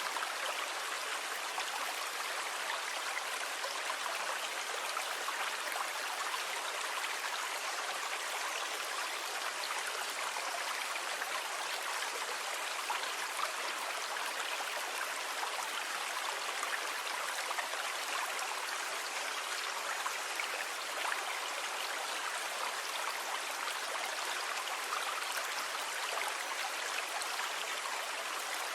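Steady rushing water, an even hiss with no rise and fall of breaking waves and no low rumble.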